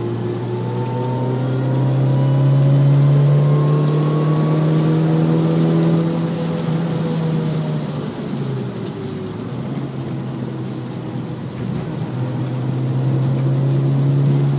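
Mini Cooper S R53's supercharged 1.6-litre four-cylinder engine, heard from inside the cabin, accelerating hard with its pitch rising for about six seconds, easing off around eight seconds in, then pulling again.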